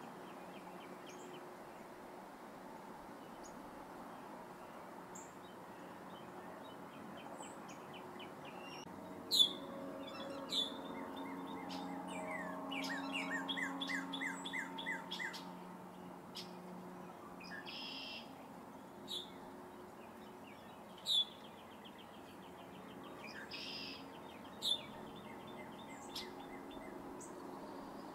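Birds chirping and calling, with rapid trilled phrases and a few much louder sharp chirps spread through, over a low steady hum that swells for a few seconds in the middle.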